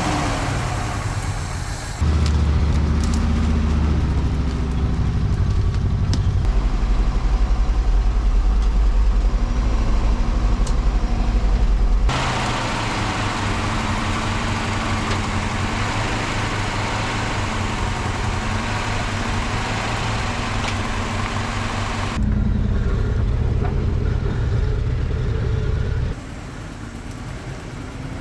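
Engine of a 1960s Ford dump truck running as the truck is tried out moving. The sound changes abruptly several times, loudest and deepest in the first third.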